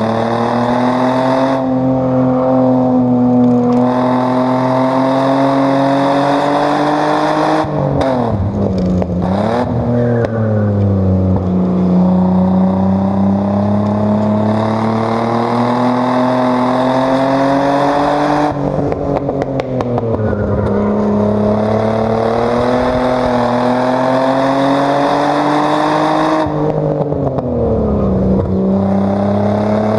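Chevrolet Omega 3.0's straight-six engine under hard load on a track lap, heard from inside the car. The revs climb slowly through long pulls and drop three times with brief wavering blips, as it brakes and shifts down for corners.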